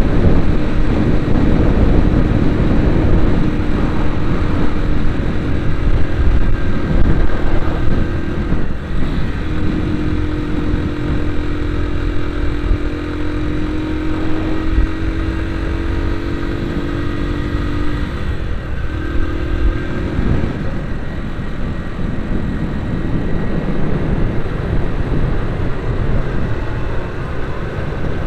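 Motor vehicle engine running steadily while driving along over a heavy low rumble. The engine note creeps upward and breaks off briefly twice, about nine seconds in and again around eighteen seconds, as at gear changes.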